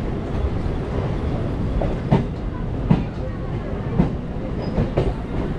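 Electric multiple unit local train rolling slowly: a steady rumble with a few sharp wheel knocks over rail joints, roughly one a second from about two seconds in.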